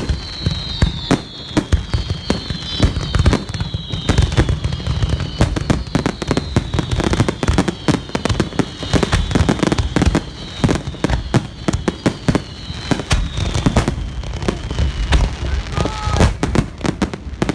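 Fireworks going off in rapid succession: a dense run of crackling bangs, with high whistles sliding down in pitch over and over through most of it.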